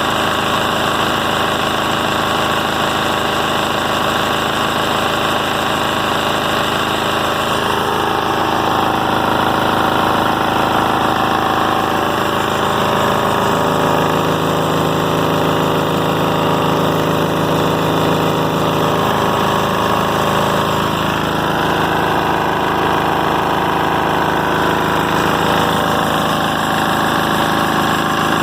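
A 10 hp Kohler diesel engine running steadily, its speed shifting slightly a few times.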